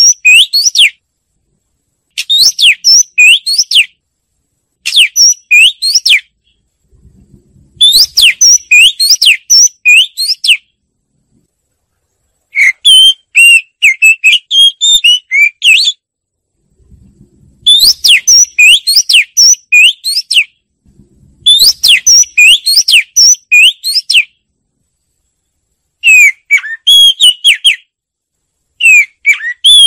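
Oriental magpie-robin singing: repeated phrases of clear, sweeping whistled notes, each phrase lasting one to three seconds with short pauses between them.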